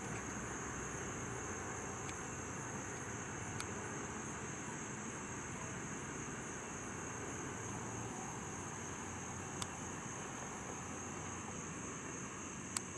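Steady chorus of insects, a continuous high-pitched buzz, over a low even rumble of outdoor noise; a few brief sharp clicks, the loudest near the end.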